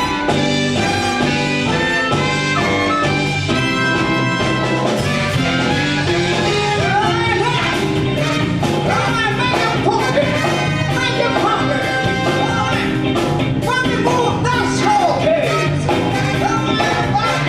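Live band playing with drums, bass and brass; from about five seconds in a lead line with bending, wavering pitches runs over the band.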